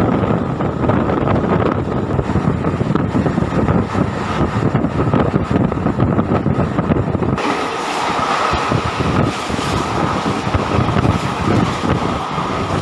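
MEMU electric train running along the track, a loud steady rumble and rattle. About seven seconds in, the sound turns brighter and hissier as the low rumble thins.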